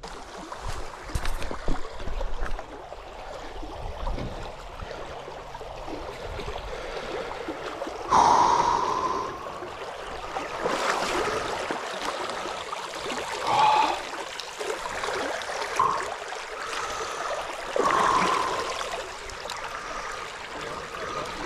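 Stream water running steadily, with louder splashing and gurgling several times as someone gets into the water to swim.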